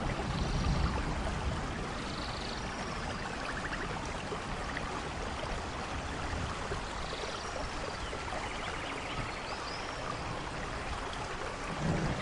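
Steady rainfall, an even hiss of falling rain and running water. A low rumble of thunder dies away over the first two seconds and starts building again at the very end. Faint short high chirps come through the rain a few times.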